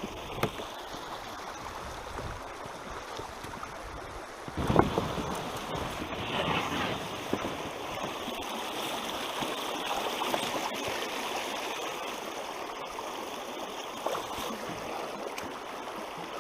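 Steady rushing of a stream running through rapids, with one sharp thump about four and a half seconds in.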